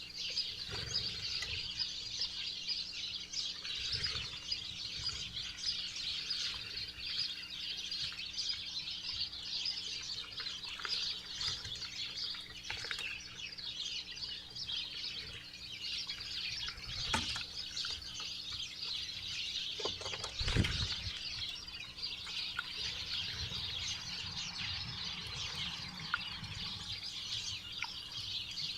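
Many wild songbirds chirping in a dense, steady chorus, with two low thumps a little past the middle. A faint steady hum runs underneath.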